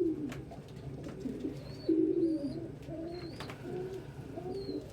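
Several domestic pigeons cooing at once, their low, wavering coos overlapping, with a few thin high peeps among them.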